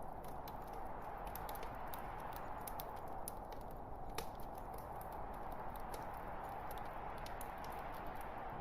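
Wood fire burning in a fireplace: a steady low rush of flame with irregular sharp crackles and pops from the logs, one louder pop about four seconds in.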